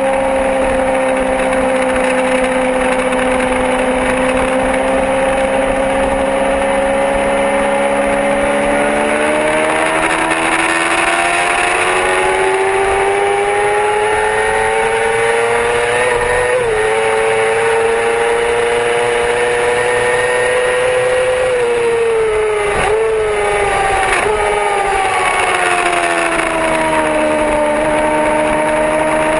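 Yamaha R6's inline-four engine at speed on a rain-soaked track. It holds steady, then climbs in pitch over several seconds with a brief dip at a gear change. Near the end it drops with a few quick blips as it downshifts, then levels off, over a steady hiss of wind and water spray.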